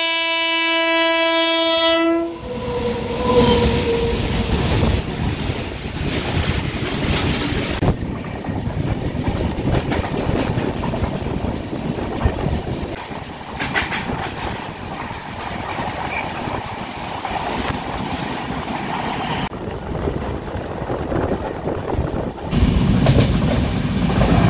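An Indian Railways train horn blows one steady note for about two seconds. It is followed by the rumble and clatter of a train running on the rails, which grows louder again near the end.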